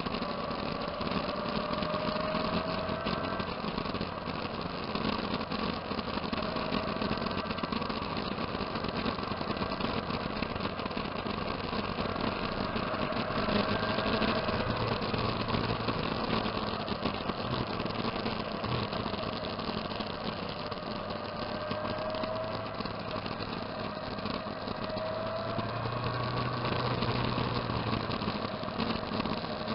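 Motorcycle engine running steadily, with several short rises in engine pitch a few seconds apart.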